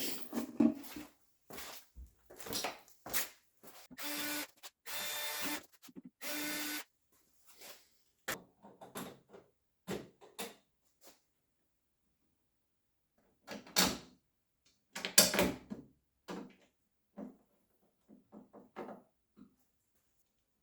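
Intermittent clicks, knocks and rattles of trim hardware (snap bolts and nylock nuts) being fitted by hand, with three short whirring bursts of a small motor, such as a cordless driver, about four to seven seconds in.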